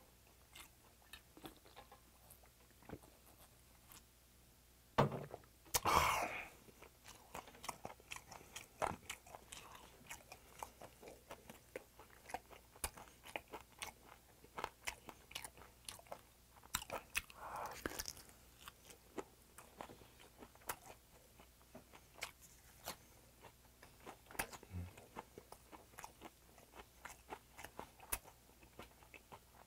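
Close-miked, open-mouthed chewing and lip smacking on raw silver pomfret: many small wet clicks throughout, with a few louder, longer bursts.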